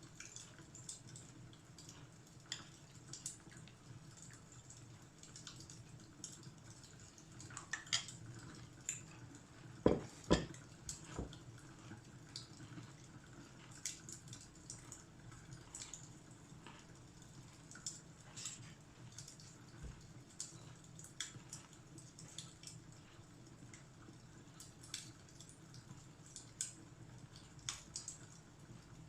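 Fireplace fire crackling softly: scattered small pops and snaps over a low steady rush, with a few louder pops about a third of the way in.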